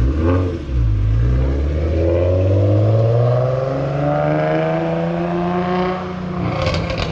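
A car's engine and exhaust revving briefly, then accelerating away with a steadily rising engine note for several seconds before easing off near the end.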